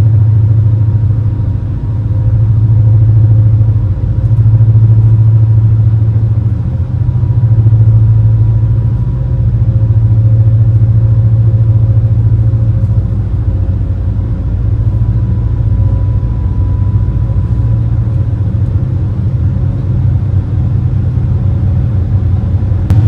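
Engines of a high-speed passenger craft running steadily under way, a loud low drone with a faint whine above it. The drone swells and eases every couple of seconds.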